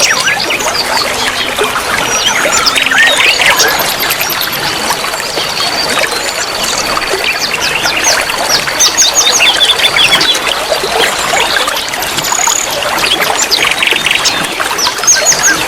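Many small songbirds chirping and trilling together, one call over another, over a steady trickle of running water.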